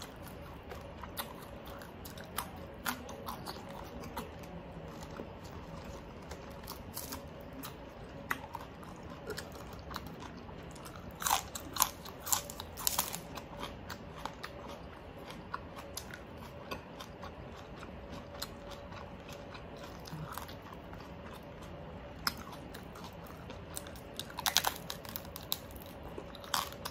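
Close-up chewing and biting of crispy oven-baked pork, the crackling skin giving sharp, scattered crunches that come in louder clusters about eleven to thirteen seconds in and again near the end.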